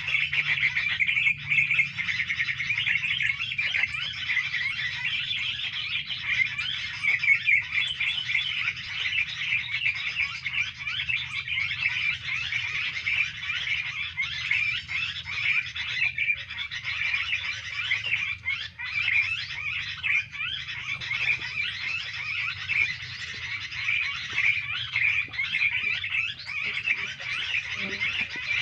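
Dense, continuous chattering of many small birds, a fast jumble of short high calls with no pause, over a faint low hum.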